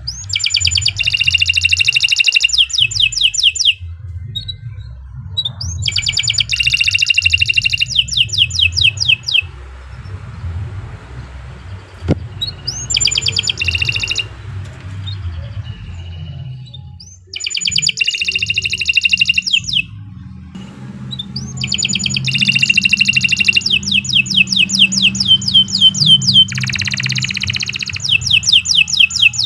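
Domestic canary singing long phrases of very rapid, high trills, each phrase a few seconds long with short pauses between. The last phrase runs for about eight seconds. A steady low hum sits underneath.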